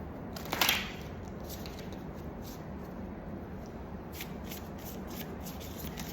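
Tarot cards being handled and shuffled: one short rustle about half a second in, then faint quick card flicks through the second half, over a steady low background hum.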